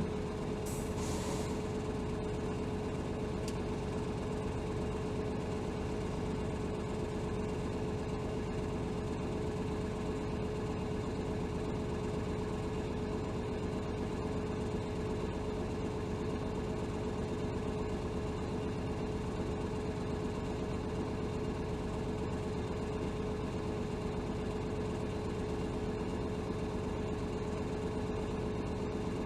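Inside the cabin of a 2007 Hino Rainbow HR city bus (BDG-HR7JPBE), its diesel engine running at a steady, even hum with a constant tone. A brief hiss about a second in.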